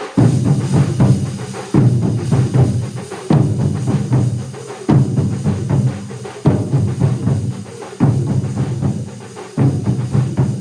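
A large drum ensemble playing together: a heavy unison beat lands about every second and a half, with fast rolling strokes filling the gaps between them.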